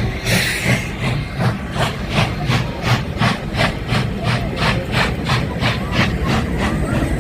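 Steam locomotive chuffing in a steady rhythm, about three chuffs a second, over a low rumble, after a short burst of steam hiss at the start.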